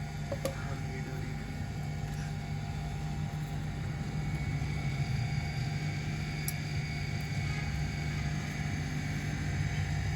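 Toyota Corolla GLi engine running steadily at idle with an even, low hum.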